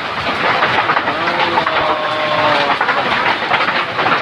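Hailstorm with heavy rain: a steady rushing roar full of rapid sharp clattering as hailstones pelt hard surfaces.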